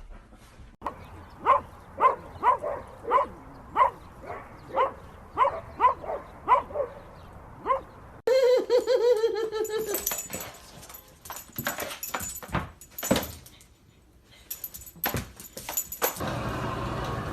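A dog barking over and over, about two barks a second, for roughly seven seconds. Then the sound changes abruptly to a wavering drawn-out call, followed by scattered clicks and knocks.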